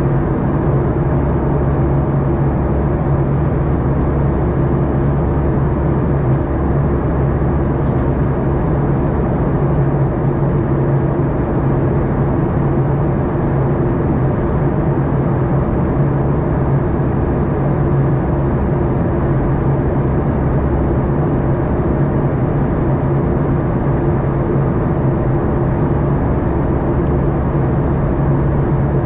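Boeing 737-800's CFM56 jet engines and airflow heard inside the passenger cabin: a steady hum over a constant rushing noise, unchanging in level.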